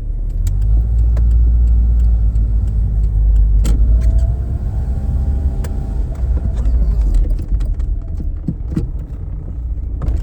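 Car engine and road rumble heard from inside a moving car, steady throughout, with scattered light clicks and knocks.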